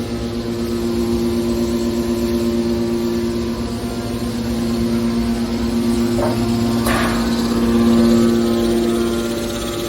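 Horizontal hydraulic scrap metal baler running with a steady, even hum, with two brief sharp noises about six and seven seconds in.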